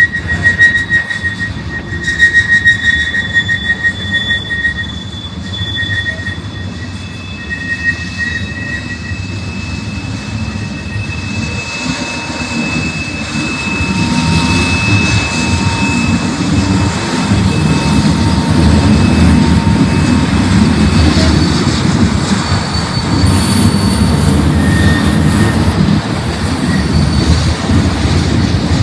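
Freight train cars rolling past, their wheels squealing in high, steady tones for the first several seconds over a low rumble. The rumble grows louder about halfway through and holds.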